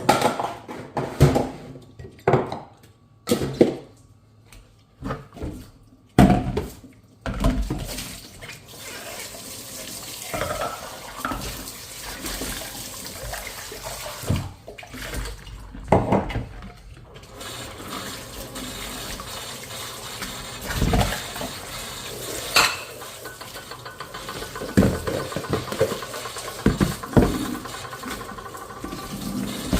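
Dishes being washed in a sink: crockery clinking and knocking together, several separate knocks in the first few seconds, then water running steadily over them with occasional clinks.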